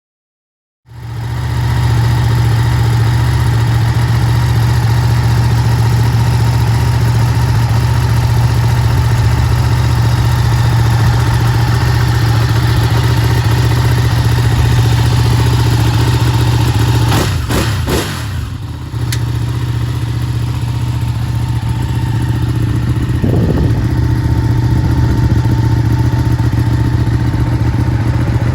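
Ducati 959 Panigale's 955 cc Superquadro L-twin idling steadily. It comes in suddenly about a second in, and the pitch swings briefly about two-thirds of the way through.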